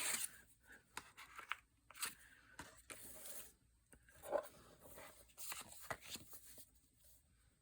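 Paper trimmer cutting card stock and the strips being handled: scattered clicks and several short rasping strokes, dying away near the end.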